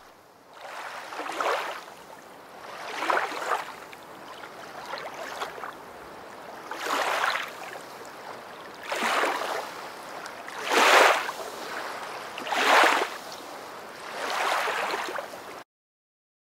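Small waves breaking on a sandy beach, the surf swelling and falling away about every two seconds. It cuts off suddenly near the end.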